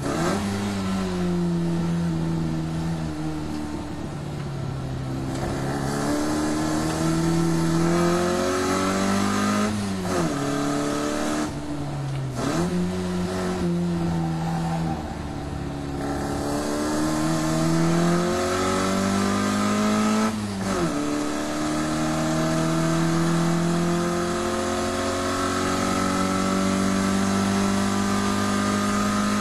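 Classic Mini Cooper's 1380cc four-cylinder engine on Weber 45 carburettors driven hard on a race circuit. The revs climb steadily and drop sharply at the gear changes several times.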